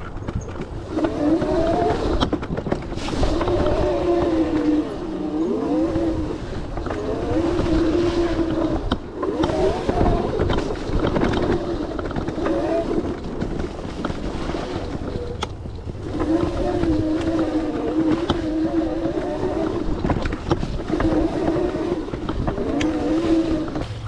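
72V-converted Razor MX650 electric dirt bike's motor whining under riding, its pitch repeatedly rising and falling as the throttle is worked, over a low rumble with scattered knocks from the rough trail.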